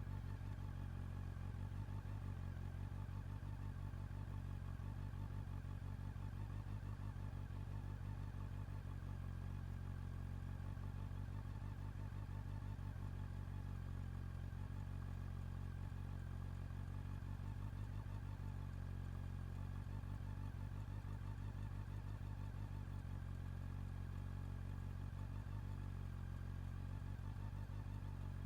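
Honda CB400 Super Four's inline-four engine and exhaust running steadily at one unchanging low pitch.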